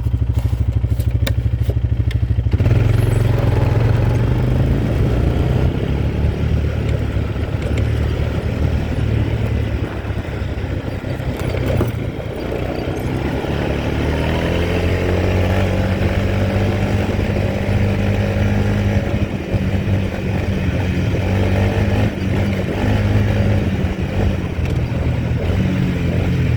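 Quad bike engine running under way. The engine note changes about two and a half seconds in, then climbs in pitch about halfway through and holds there.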